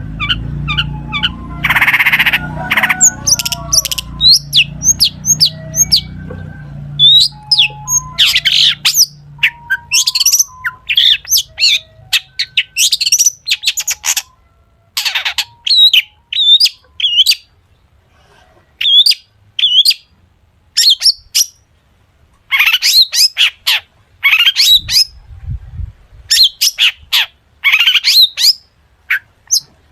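Long-tailed shrike (cendet) singing a rapid, varied song of sharp chirps and steep whistled sweeps, packed with mimicked calls of other birds, with a harsh rasping note about two seconds in.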